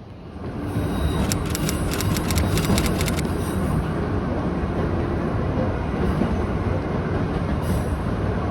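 Toyama Chihō Railway electric train running with a steady rumble that swells about half a second in, with a quick rattle of clicks between about one and three seconds in.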